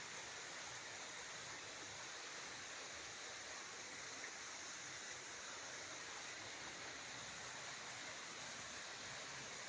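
Steady rushing of flowing water, with one faint tick about four seconds in.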